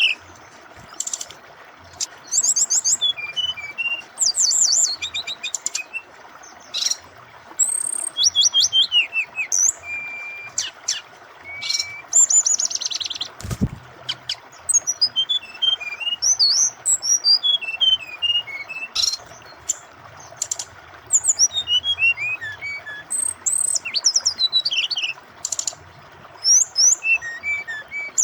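Brown-chested jungle flycatcher (sikatan rimba dada coklat) singing a varied, fast song of high-pitched chirps, rapid trills and short whistled glides in phrases with brief pauses, over a steady hiss of running water. A single low thud comes about halfway through.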